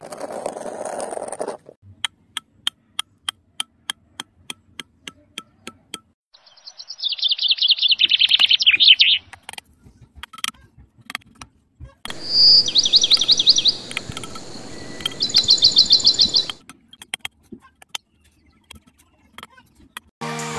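Bird calls: a run of sharp, evenly spaced clicks, then two bursts of rapid high-pitched chirping trills several seconds apart.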